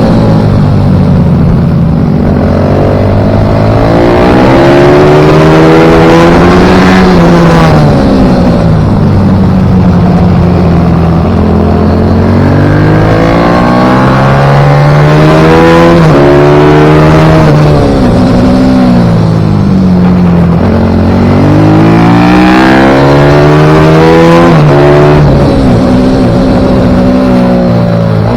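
Pit bike engine at racing speed, revving high and dropping back again and again as it accelerates and slows, without a pause.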